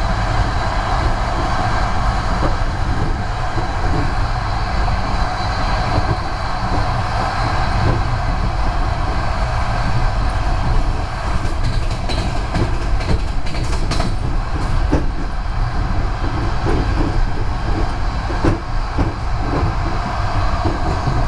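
Passenger train running at speed, its steady rolling noise of wheels on the rails heard from inside the carriage, with a cluster of sharp clicks a little past halfway.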